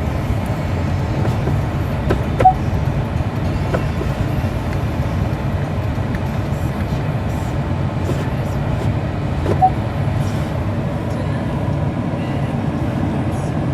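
Pickup truck engine idling, heard from inside the cab as a steady low rumble. Two small clicks come about two and a half seconds in and again near ten seconds.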